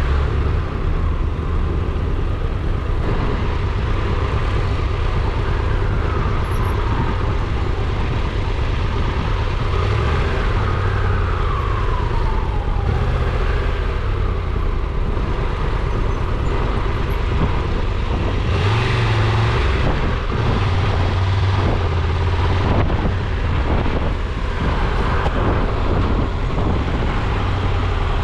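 Steady road and engine noise of a car on the move, with a strong low rumble and two falling whines in the first half.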